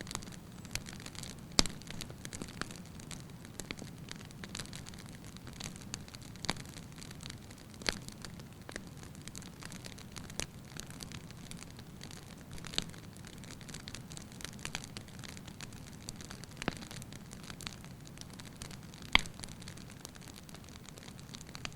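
Wood fire burning in a fireplace, with a steady low hiss and scattered sharp crackles and pops from the logs, a few of them louder, one near the end.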